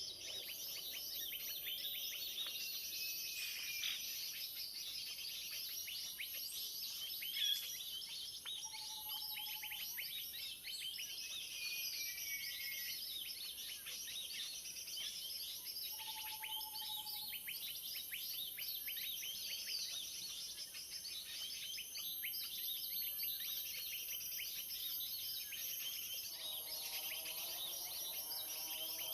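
Dense, unbroken chattering and chirping of many small birds, the 'keributan' (commotion) lure call played from an MP3 to draw birds in for trapping, with a steady high hiss beneath it.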